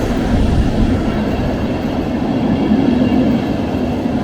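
Train running past close by: a loud, steady rumble of wheels on the rails.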